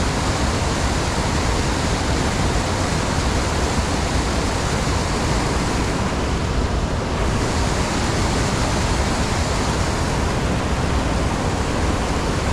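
Steady rush of creek water pouring over rocks, an even hiss with a low rumble, thinning slightly in the highs about seven seconds in.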